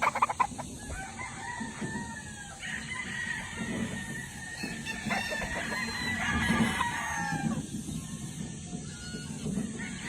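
Several roosters crowing, long crows overlapping one another, with hens clucking underneath. A brief loud rattle comes right at the start.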